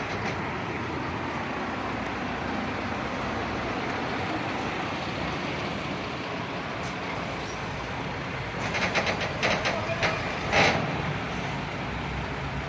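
MAN TGS 40.440 heavy truck running under a load of about 70 tonnes: a steady engine and road rumble, with a burst of rattling knocks from about two-thirds of the way in, loudest near the end.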